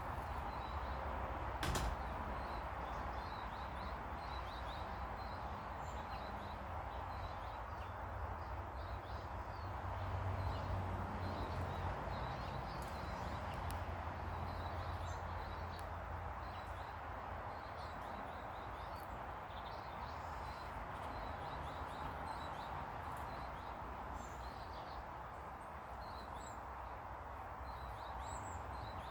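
Small garden birds chirping, with many short high calls scattered throughout over a steady low background rumble. A single sharp knock about two seconds in.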